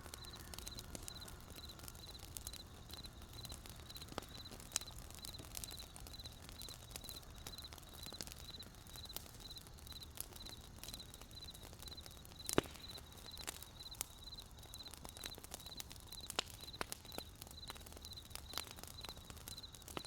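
Wood campfire crackling, with scattered sharp pops and one louder pop about twelve and a half seconds in, over crickets chirping in a steady, high, pulsing trill.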